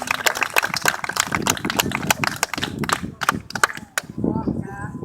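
Audience applause: many quick hand claps that thin out and stop about four seconds in, with voices talking among them.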